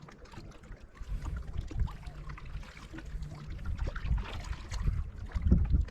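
Lake water lapping and trickling against a kayak's hull, with small splashes and wind rumbling on the microphone, growing louder toward the end.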